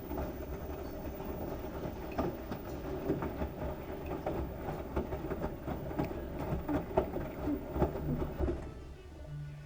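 LG washing machine running with a load of wet towels: irregular knocks and clatter from the drum and load over a steady low motor hum. The sound drops away near the end.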